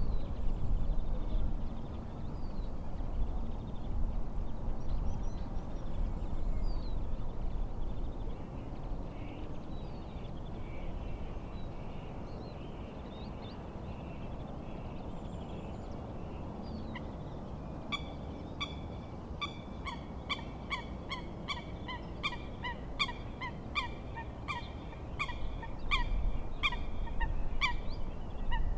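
A bird calling in a regular series of short, clipped notes, about two a second, starting a little past halfway, with fainter scattered chirps before it. Under the calls runs the low rush of wind and lake waves.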